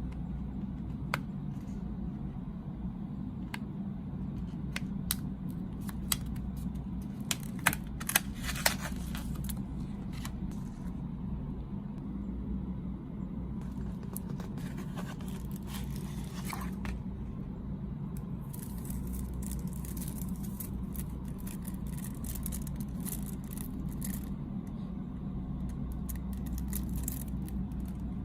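Snack packaging being handled and opened: scattered sharp clicks and taps, with a cluster about seven to nine seconds in, and stretches of wrapper rustling and crinkling, over a steady low hum.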